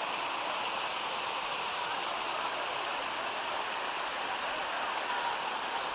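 Steady rushing of a mountain creek tumbling over its waterfalls.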